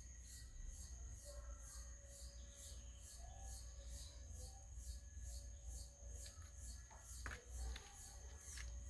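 Insects chirping in an even rhythm, about three pulses a second, over a steady high buzz, with a low rumble underneath and a couple of faint clicks near the end.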